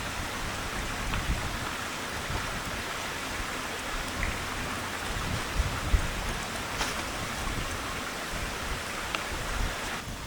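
Rain falling steadily, with a few sharp drop ticks and a low, gusting rumble of strong wind.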